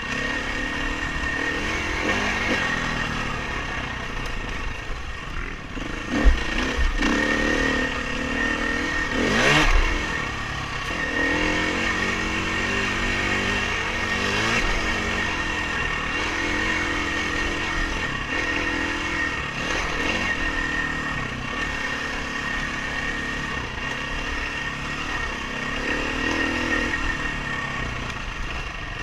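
Dirt bike engine revving up and down through the gears while riding. There is a sharp knock about six seconds in and a louder one near ten seconds.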